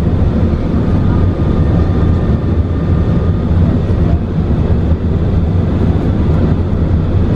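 Steady, loud low rumble of cabin noise inside an Airbus A380 airliner: engine and airflow noise.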